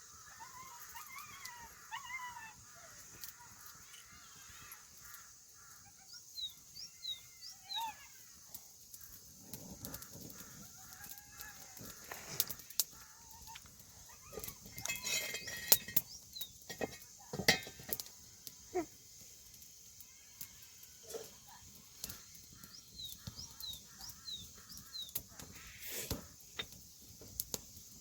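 Birds chirping and calling, with many short high chirps and one louder, harsher call about halfway through, among scattered light clicks.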